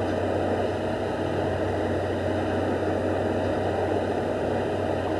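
Heavy diesel engine of a Plasser track maintenance machine running steadily, a constant low hum with a steady higher tone over it.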